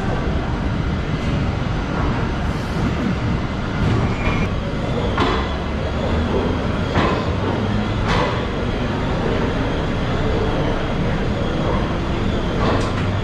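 Boat Mail Express passenger train rolling slowly out of the station, heard from an open coach doorway: a steady rumble of the coaches on the track with a few sharp, irregular clicks from the wheels and couplings.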